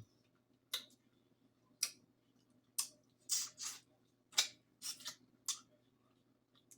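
Close-miked eating of lobster meat: about ten sharp, wet mouth clicks and smacks at an uneven pace.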